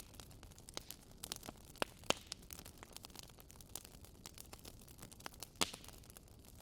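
Wood fire crackling in a fireplace: irregular sharp pops and snaps over a faint hiss, with the loudest pops about two seconds in and shortly before the end.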